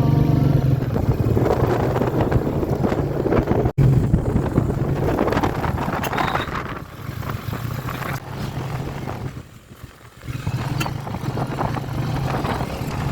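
A Royal Enfield Meteor's single-cylinder engine runs steadily under way, with wind buffeting the microphone. The sound cuts out for an instant a few seconds in and drops off briefly later on.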